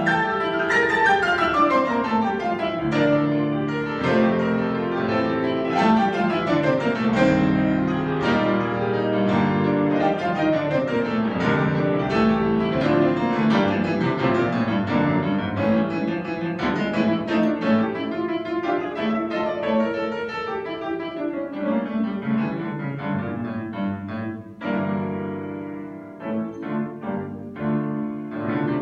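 Solo piano playing a classical piece, with repeated rapid falling runs and full chords, and a brief drop in loudness followed by renewed chords near the end.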